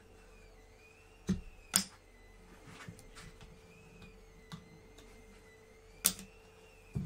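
Sharp clicks and knocks of hard plastic cups being handled and set down, two close together about a second in and two more near the end, over a faint steady hum.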